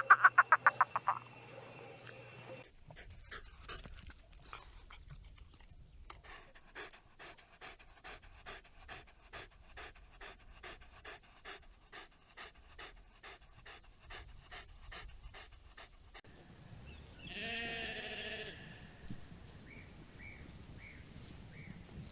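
Animal sounds: a fast burst of about nine loud, sharp calls, then a long run of rhythmic panting breaths, about two to three a second. Near the end comes a short call with a wavering pitch, followed by a few faint high chirps.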